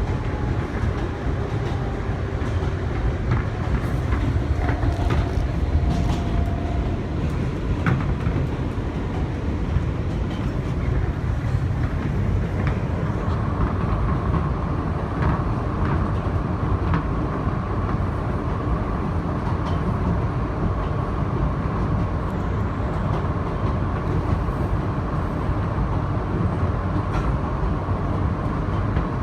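Inside an R160B Siemens subway car running at speed on elevated track: a steady rumble with scattered clicks from the rails. A steady high tone joins about halfway through and holds to the end.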